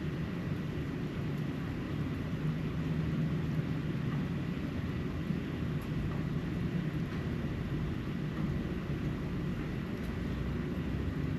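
Steady low rumble of distant engine noise, with a faint thin high tone running through it.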